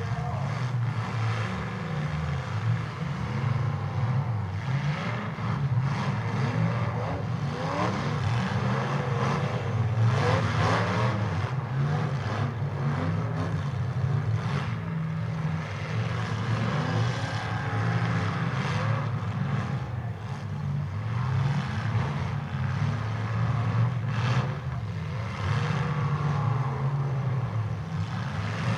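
Demolition derby car engines running and revving in pitch as the cars push and ram each other, with several sharp knocks of collisions scattered through.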